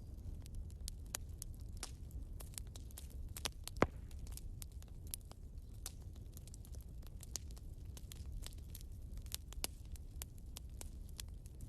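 Firewood burning in a fireplace, crackling with irregular sharp pops over a low steady rumble; one pop about four seconds in is louder than the rest.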